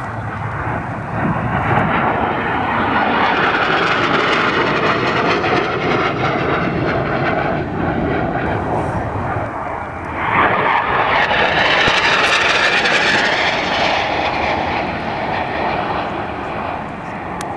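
Aircraft flying past, its engine noise building up, easing off briefly, then surging loud again about two-thirds of the way through before fading.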